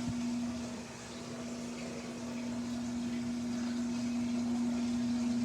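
Samsung washing machine on its spin cycle: a steady hum over a rushing noise that grows gradually louder after the first second.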